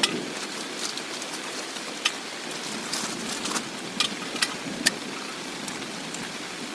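Heavy rain falling steadily, with a few louder single drops tapping sharply now and then.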